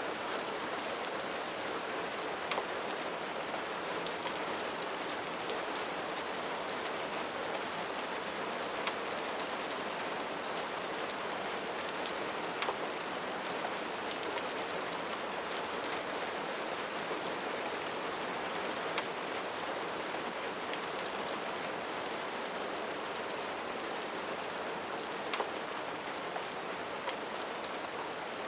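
Steady rain falling on a surface, a continuous even hiss, with a few sharp pops or ticks at irregular intervals.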